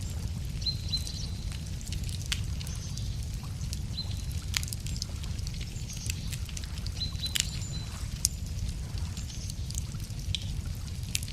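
Wood campfire crackling, with irregular sharp pops over a steady low rumble. Birds chirp briefly in the background, short high calls repeated a few times.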